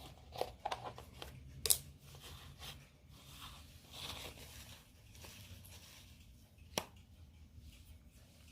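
Bearded dragon crunching on a feeder insect: a quick run of sharp crunches in the first two seconds, a softer crackling a little later, and one more crunch near the end.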